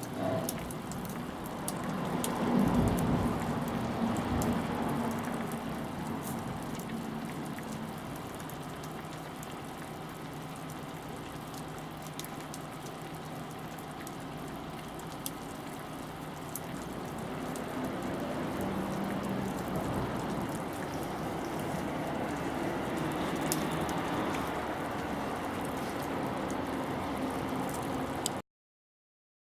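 Wood fire crackling, with many small scattered pops over a steady hiss. It cuts off suddenly near the end.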